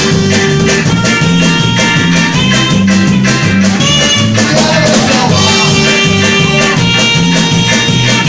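A rock band playing live: drums keep a steady beat under a busy bass line and guitar, with a ska-like feel and no singing.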